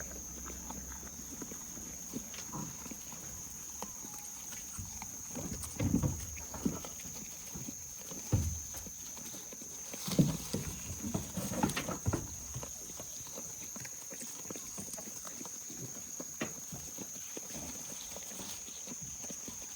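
Goats scuffling at close quarters, hooves clattering and knocking, with louder clusters of scuffle about six seconds in and again from about ten to twelve seconds in.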